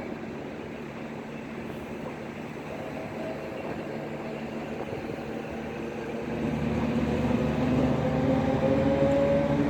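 Electric train accelerating: its traction motors give a whine that slowly rises in pitch over a steady rumble, growing louder over the last few seconds.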